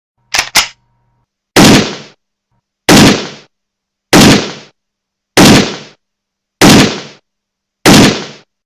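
Six loud gunshots, evenly spaced about a second and a quarter apart, each dying away quickly, after two quick sharp clicks at the very start.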